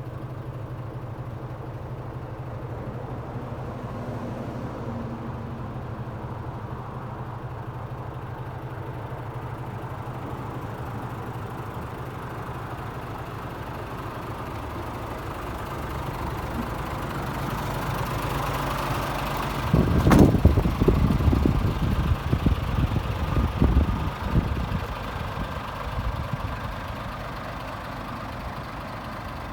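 Scania S500 tractor unit's 13-litre straight-six diesel idling steadily. About twenty seconds in there is a sharp click, followed by several seconds of irregular low thumps before the idle settles again.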